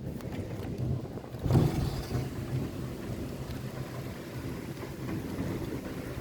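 Rain drumming on a window's glass and sill, with a low rumble that swells about a second and a half in.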